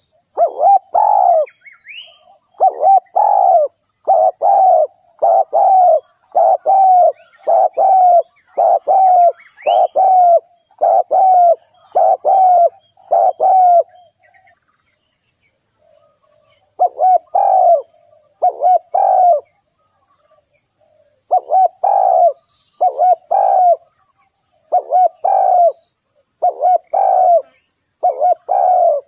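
Spotted dove cooing: a decoy bird's repeated coo phrases, about one a second, stopping for a few seconds about halfway through and then starting again.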